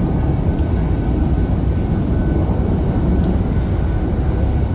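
Train running, a steady heavy low rumble with a faint steady high tone above it.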